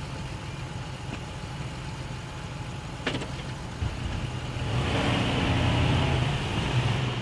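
Truck engine running steadily, growing louder about two-thirds of the way through, with a single sharp click about three seconds in.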